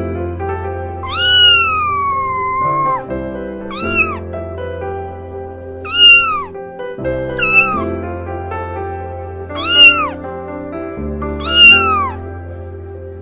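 Kitten meowing about six times in high, thin calls that rise then fall in pitch, the first a long drawn-out meow about a second in, the rest short. Background music plays steadily underneath.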